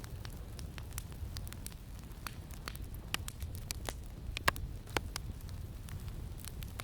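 Campfire crackling: irregular sharp pops and snaps, the loudest two about four and a half and five seconds in, over a steady low rumble of wind.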